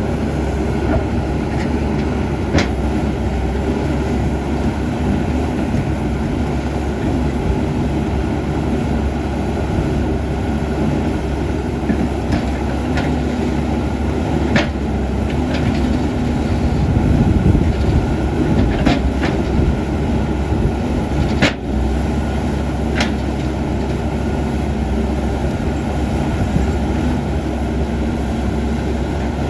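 CAT 320D excavator's diesel engine running steadily, rising a little about two-thirds of the way through, with a handful of sharp knocks scattered over it.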